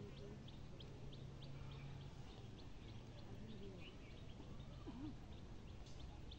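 Faint bird chirps repeating steadily, about three short high notes a second, over low outdoor background noise.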